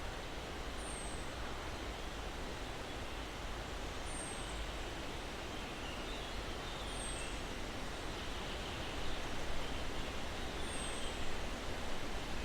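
Steady breeze through pine branches, with a short, high, falling bird chirp about every three seconds and fainter, lower bird calls.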